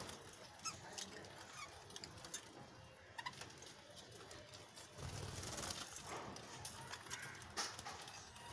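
Budgerigars chirping and chattering in short, scattered chirps, with a few sharp ticks among them.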